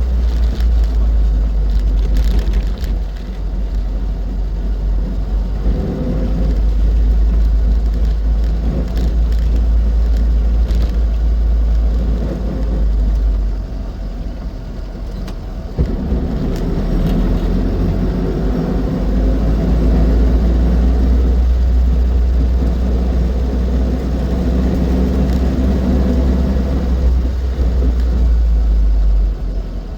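Austin Seven's small four-cylinder side-valve engine running on the road, with heavy low road and wind rumble. About halfway through, the engine eases off for a couple of seconds, then pulls again.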